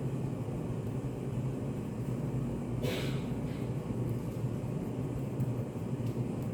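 Study café room ambience: a steady low hum, with a brief sharp noise about three seconds in and a smaller one just after it.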